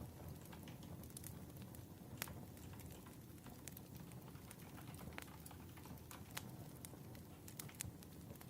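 Wood fire crackling: irregular sharp pops and snaps over a faint low rumble of burning logs.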